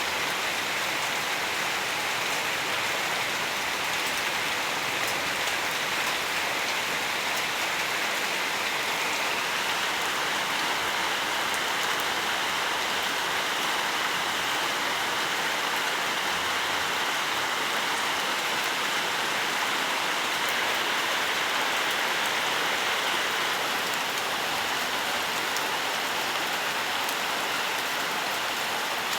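Steady rain falling, an even hiss of many drops with fine patters of individual drops on leaves and surfaces.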